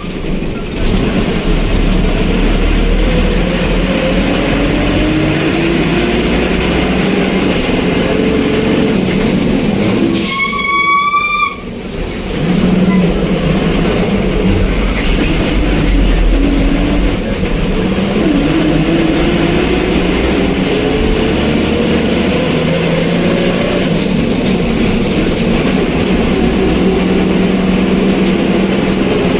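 Moving vehicle heard from on board: the engine note rises in pitch again and again as it accelerates through the gears, over steady travel noise, and a horn sounds briefly about ten seconds in.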